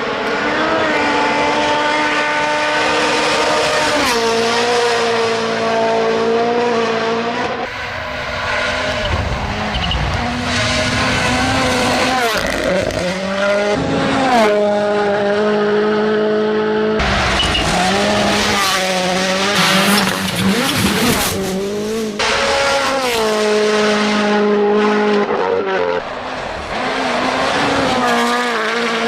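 Modified cars' engines revving hard at high revs, with tyres squealing, in a run of separate passes whose pitch holds, dips and rises again every few seconds.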